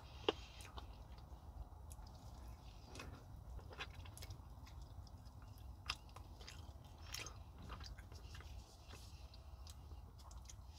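Close-up, faint chewing and wet mouth sounds of a person eating stewed chicken and cabbage by hand, with scattered small clicks and a sharp click about a quarter second in. A steady low hum runs underneath.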